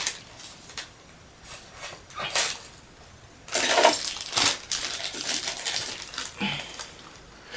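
Irregular rustling of packaging and small hard clicks as parts of a diecast crane model are handled and unpacked by hand, busiest about halfway through.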